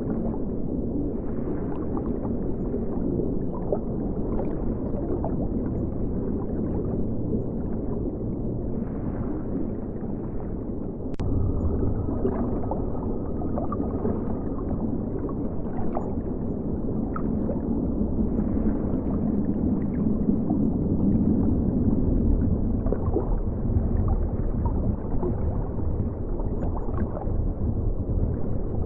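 River water flowing past an underwater camera: a steady low rushing and gurgling with scattered small ticks. A single sharp click about eleven seconds in, after which the flow sounds slightly louder.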